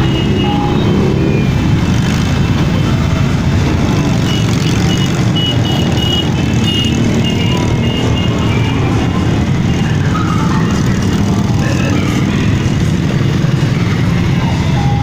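Motorcycle engines running steadily in a dense, continuous rumble, as a parade of bikes passes.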